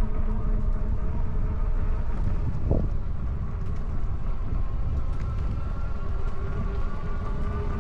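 Electric bike hub motor whining steadily under heavy wind rumble on the microphone while riding. The whine's pitch creeps up slightly near the end.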